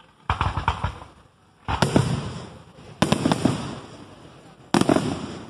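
Aerial fireworks shells bursting overhead: a quick cluster of sharp pops, then three heavy booms about a second and a half apart, each fading away slowly.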